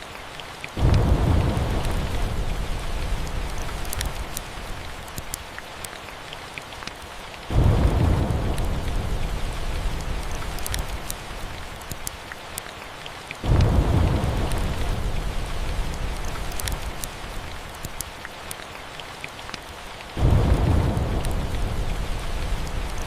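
Steady rain with thunder: four claps that each hit suddenly and rumble away over several seconds, coming about every six to seven seconds.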